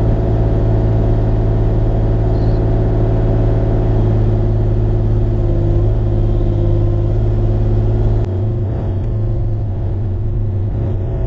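Bobcat E35 mini excavator's diesel engine running steadily. About eight seconds in, the level drops a little and the sound turns duller.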